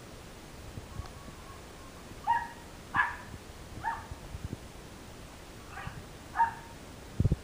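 Dog giving five short high-pitched yips and whines, spaced about a second apart, with a dull low thump near the end.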